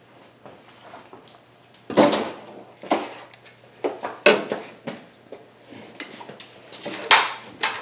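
Metal tools clinking and clattering, with a few sharp knocks about a second or so apart, as sockets are handled and set down.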